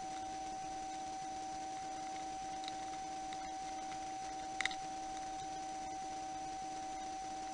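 A steady electrical-sounding hum on one held tone, with two brief clicks about two and a half and four and a half seconds in.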